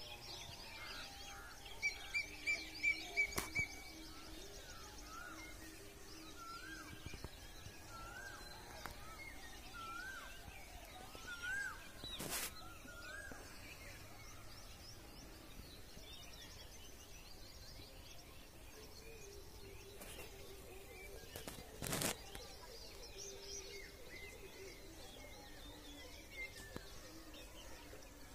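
Birds calling and chirping over faint outdoor background noise, with a quick run of about six short, loud high notes a couple of seconds in and a string of rising, curling chirps in the middle. Two brief sharp noises break in, about twelve and twenty-two seconds in.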